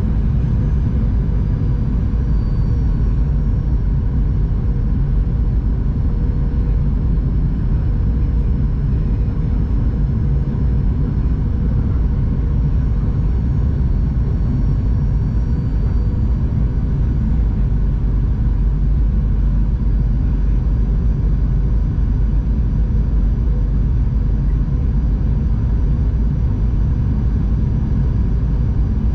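Steady cabin drone of a Boeing 737-800 in flight: a deep rumble of airflow and its CFM56-7B turbofan engines, with faint steady whining tones on top.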